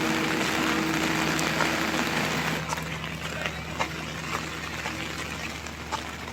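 Rain falling, a dense hiss at first that drops to a softer patter about two and a half seconds in, with separate drops landing close by every half second or so. A low steady hum lies underneath.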